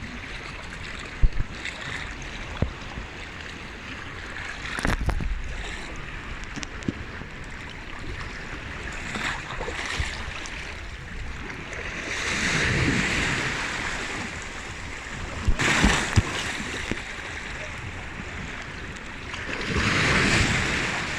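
Sea waves washing ashore over a steady background wash, with two louder surges a little past halfway and near the end, and a few short sharp knocks.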